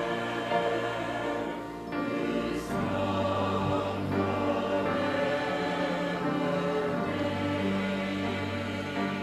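A group of voices singing a hymn together, in long held notes that change every second or so.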